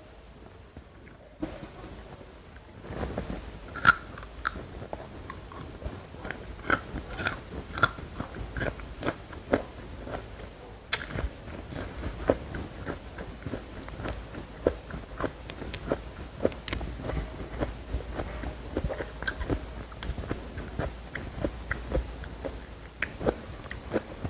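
Close-miked ASMR eating: crunchy food being bitten and chewed, with many sharp, irregular crunches that start about three seconds in.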